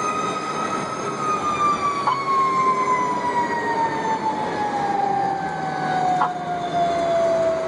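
Fire engine siren winding down, its pitch falling slowly and steadily the whole time, over the truck's running noise.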